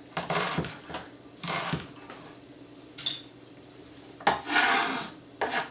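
Kitchen knife dicing an onion on a cutting board: a few irregular cuts and scrapes, with a longer scraping stroke about four seconds in.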